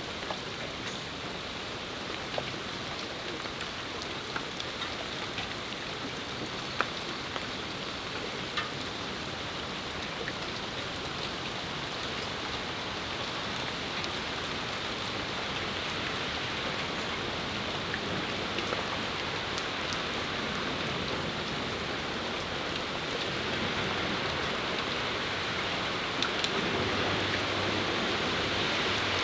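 Steady rain falling, a dense hiss with scattered louder drips ticking nearby. It grows gradually louder toward the end.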